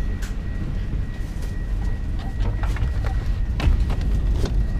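Steady low rumble of an airliner cabin's air conditioning during boarding, with a thin steady high whine and scattered clicks and knocks.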